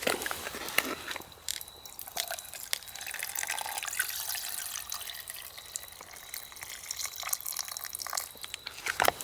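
Water pouring and dripping, with a steady hiss in the middle and small clicks and clinks throughout.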